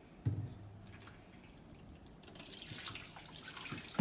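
A knock as the mini fridge's plastic drip tray is handled, then meltwater from the tray splashing and running, building up over the last second and a half.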